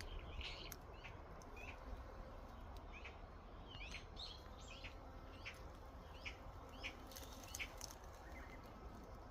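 Small birds chirping: many short, sharp calls repeating irregularly throughout, over a faint low rumble.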